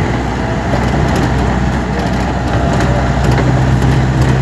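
Engine and road noise of a moving vehicle, a steady low hum that grows louder about three seconds in.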